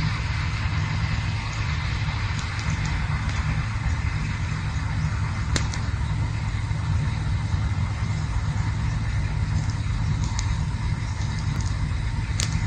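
Campfire burning with a steady low rumble and the odd sharp crackle, one clear pop about halfway through and another near the end.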